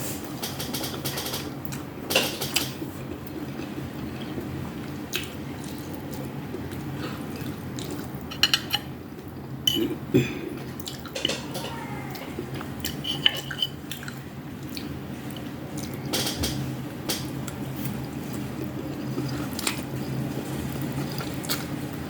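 Eating utensils clicking against dishes in short, irregular strikes over a steady low hum.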